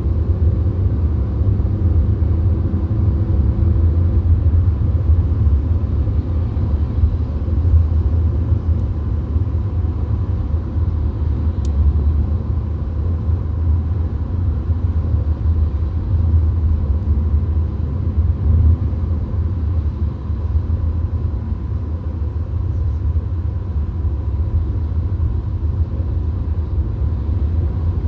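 Steady low rumble of road and engine noise inside a VW Golf cruising at motorway speed, with no shifting or change in pace.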